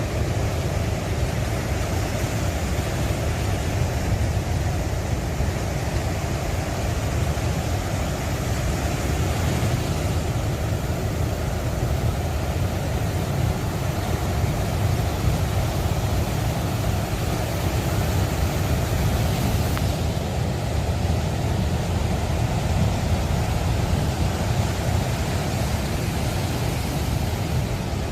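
Steady rushing noise of wind and sea at the shore, with a heavy low rumble and no distinct breaking waves.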